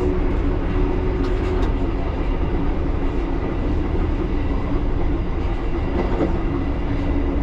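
A 1938 Tube Stock train running along the line: a steady low rumble of wheels on rail with a constant hum, and a few faint clicks about a second in.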